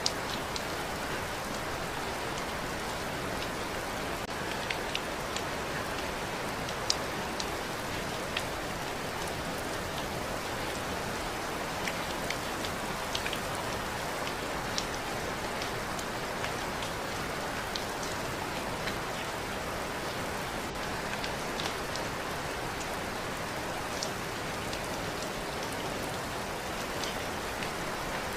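Steady rain falling, with scattered individual drops ticking sharply.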